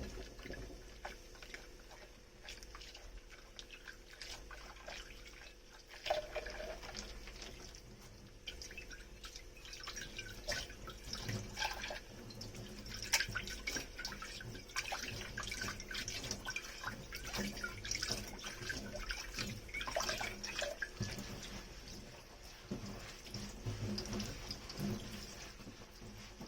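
Dishes being washed by hand in a kitchen sink: water dripping and trickling, with many small irregular clicks and splashes.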